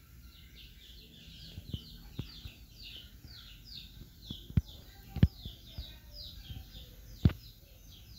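A bird chirping over and over, a steady run of short falling chirps, two or three a second. A few sharp clicks and knocks come through, the loudest about four and a half, five and seven seconds in.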